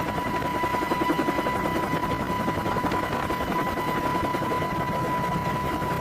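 AH-64 Apache helicopter in flight: steady rotor and engine noise with a constant high whine.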